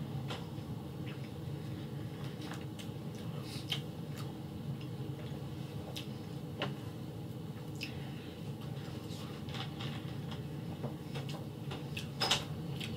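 Close-miked chewing of a burger: soft wet mouth clicks and squishes scattered through, over a steady low room hum, with a short louder noise near the end.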